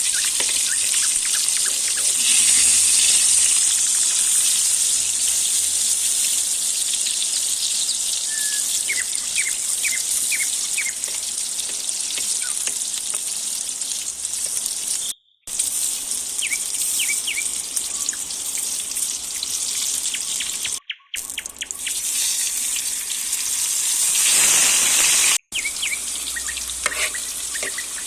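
Food sizzling in a saj pan over a wood fire, a steady high hiss with little pops and squeaks. The sound drops out briefly three times.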